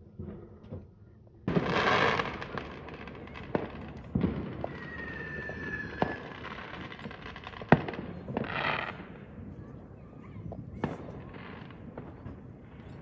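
Fireworks going off: a loud crackling burst about a second and a half in, then a string of sharp bangs spread out over the following seconds, with a short, slightly falling whistle in the middle and more crackling bursts later.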